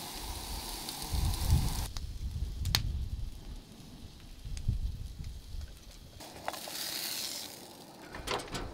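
Ground beef and onions sizzling in a skillet on a propane camp stove, broken by a stretch of campfire crackling with a few sharp pops and wind rumbling on the microphone, then frying again near the end.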